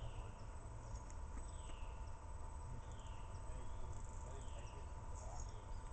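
A small songbird repeating a short, high, downward-slurred whistle four times, about a second and a half apart, over a low wind rumble and a faint steady hum.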